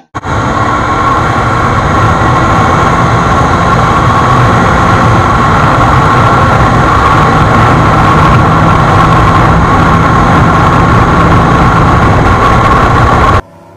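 Motorcycle at a steady speed: a loud, steady engine drone under heavy rushing noise, with no change in pitch, cutting in and out abruptly.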